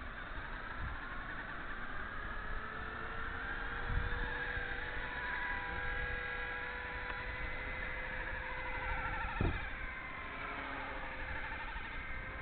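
Blade 230s RC helicopter with a triple-bladed carbon-fibre rotor head in flight: its electric motors whine at several pitches that drift up and down as it manoeuvres, with a wild, insect-like buzz from the independent tail motor. A short low thump comes about nine and a half seconds in.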